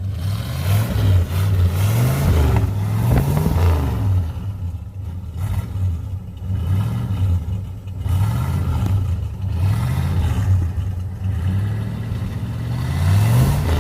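Pickup truck engine revved over and over with a deep exhaust note, about eight revs in a row, each climbing in pitch and dropping back toward idle.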